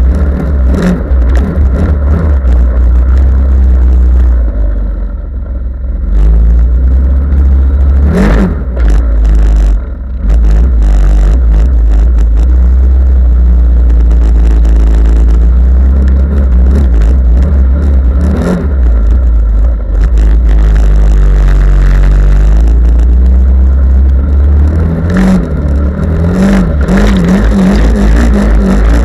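Off-road vehicle engine revving up and down while driving through mud, with heavy low rumble; it eases off briefly about five seconds in and again around ten seconds, then runs hard again.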